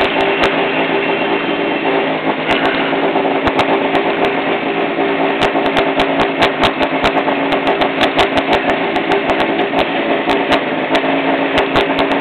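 Rally car engine idling while the car stands still, heard from inside the cabin, with frequent irregular sharp pops or clicks over the steady engine note.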